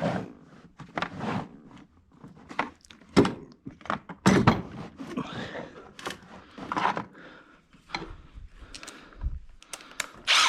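Irregular knocks, clicks and short clattering bursts of tools and metal parts being handled while starting work on a turbo removal.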